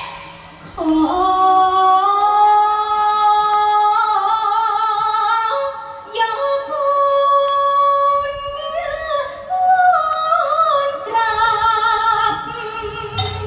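A solo voice sings long, ornamented held notes that waver and glide between pitches, with little or no accompaniment. It is the drawn-out melismatic style of a Thai mor khwan's sung invocation.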